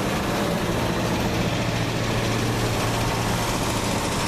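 Chevrolet 350 small-block V8 idling steadily while warming up, its choke just come off.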